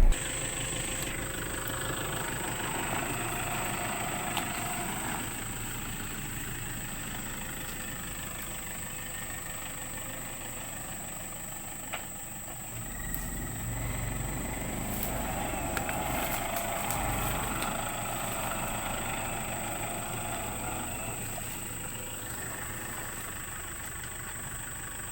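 A vehicle engine running steadily, with a thin high whine held throughout.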